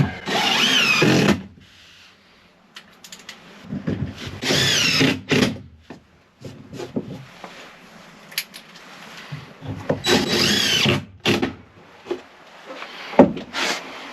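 A power drill driving screws into wood in three short runs of about a second each, its motor pitch rising and falling as each screw goes in, with small clicks and knocks of handling in between.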